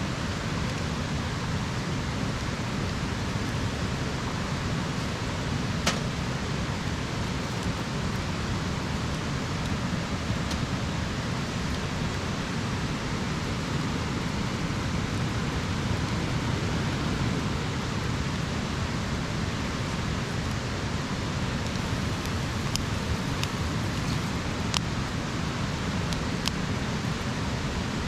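Wood campfire burning with a steady hiss and a few sharp crackling pops, scattered and a second or more apart.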